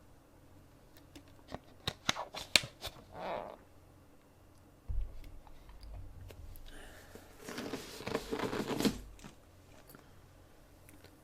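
Scattered small clicks and rustling, with a longer, louder rustle about eight seconds in.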